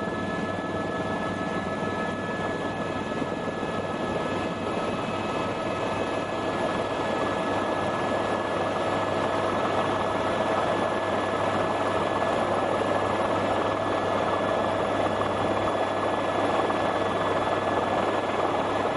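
Tour helicopter running in flight: a steady engine and rotor noise with a constant high whine over it, growing slightly louder through the second half.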